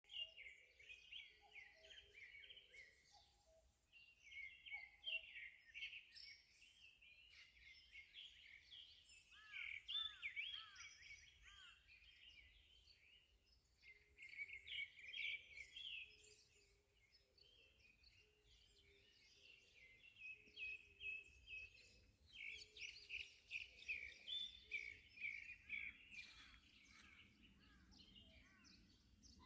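Faint morning chorus of small songbirds chirping and twittering, with a quick run of falling whistles about ten seconds in.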